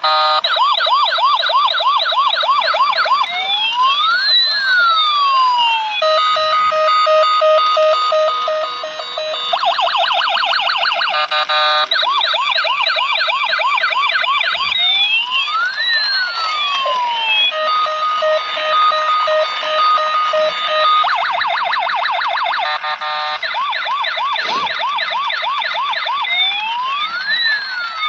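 Electronic toy siren cycling through its patterns: a fast yelp, slow rising-and-falling wails that cross each other, and a steady tone with short beeps. The cycle repeats about every eleven seconds.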